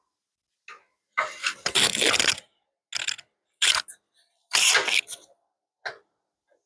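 Metal tools clinking and rattling in short bursts as a socket and wrench work an 18 mm idler-arm mounting bolt inside a truck frame, with a longer rattling spell a little after a second in.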